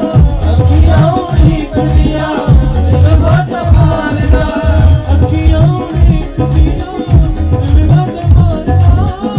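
Devotional bhajan music played live: a fast, strong hand-drum beat with rattle percussion under a wavering melody.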